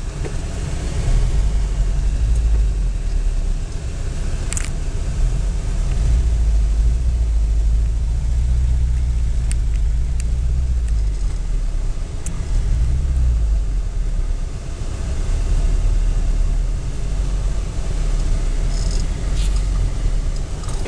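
Off-road 4x4's engine running at low speed over a rough grass track, heard from inside the cabin as a deep rumble that swells and eases. A couple of brief knocks from the bumps, one about four seconds in and more near the end.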